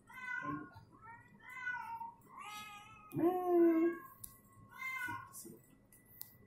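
Domestic cat meowing repeatedly while being held for a veterinary examination: about six meows, the loudest and lowest-pitched one about three seconds in.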